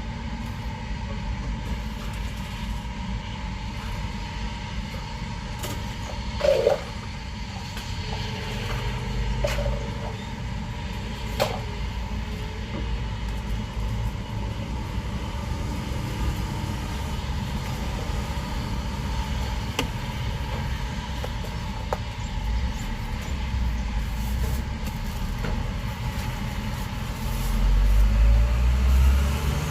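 Passing road traffic: a steady low rumble of vehicles, with a few brief sharp knocks in the first half and a louder vehicle coming by near the end.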